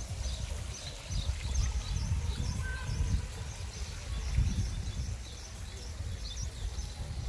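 Small birds chirping repeatedly with short, high calls, over an uneven low rumble.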